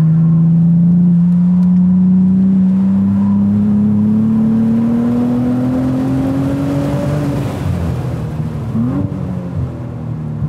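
Cadillac ATS-V's twin-turbo V6 pulling hard in third gear, its note rising steadily for about seven seconds, heard from inside the cabin. The engine then drops off as the driver lifts for braking, with a quick rev blip on the downshift to second near the end.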